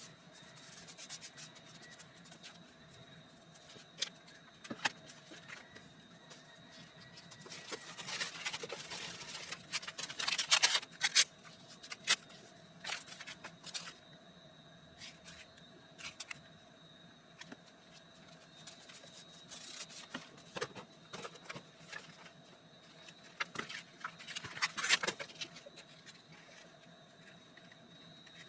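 Paper being handled and rubbed at a work table: rustling and scraping with scattered sharp clicks and taps, louder in two spells about a third of the way in and again near the end.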